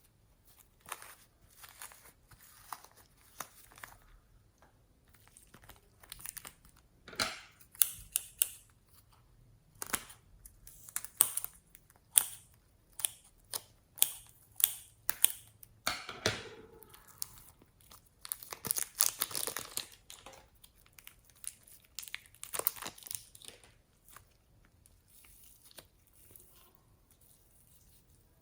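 Hands squishing and stretching slime: irregular sticky clicks, pops and crackles. The sounds are busiest in the middle and thin out near the end.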